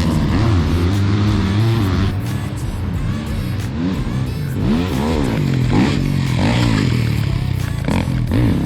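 Several motocross dirt bikes riding past, revving up and down through the gears, their engine notes rising and falling and overlapping.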